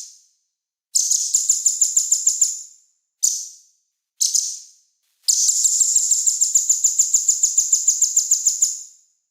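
A small songbird's high, rapid trilled song in separate phrases: a brief tail of a note at the start, a trill of about two seconds, two short single bursts, then a longer trill of nearly four seconds at about seven notes a second.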